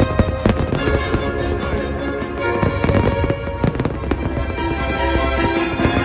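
New Year's fireworks bursting in a series of sharp bangs and crackles over music.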